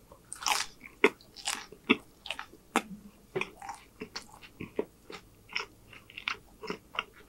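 A person chewing a crunchy mouthful close to the microphone, with crisp wet crunches about twice a second.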